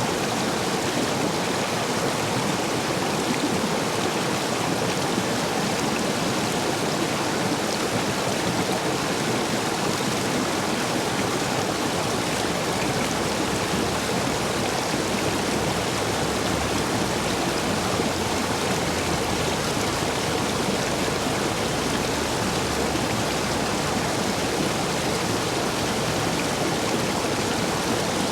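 Stream running high after heavy rain, water rushing over and between stepping stones in a steady, even rush.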